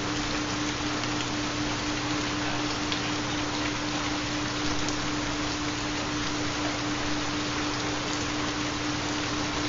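Steady rain with scattered drop ticks. A constant low pure tone, the carrier of a 4 Hz theta binaural beat, runs under it.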